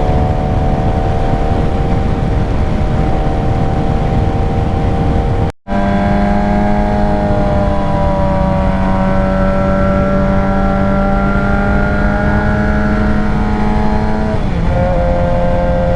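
Suzuki GSX-R 600 inline-four engine running at steady cruising revs under heavy wind rush. The sound cuts out for a split second about halfway through, and the engine note dips near the end.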